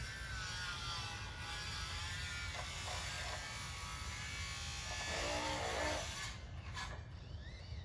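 A small power tool running with a steady buzz, stopping about six seconds in.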